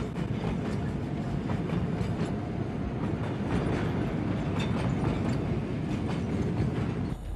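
Diesel train running along the rails: a steady low rumble with irregular clacks of the wheels over the track.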